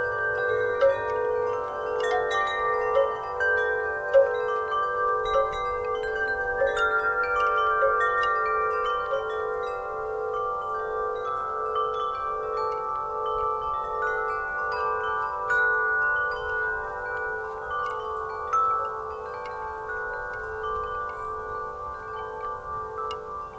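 Wind chimes ringing as they swing in a breeze: many tones struck irregularly several times a second, each ringing on and overlapping the others, growing a little quieter near the end.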